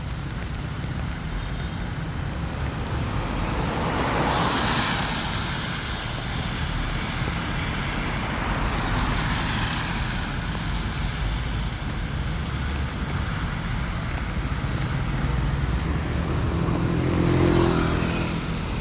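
Road traffic noise: a steady hiss of vehicles with two passing swells, one about four seconds in and a louder one near the end that carries a low engine hum.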